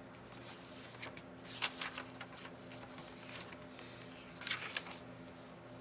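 Paper and craft materials being handled: soft rustles and a few small taps and clicks, over a faint steady hum.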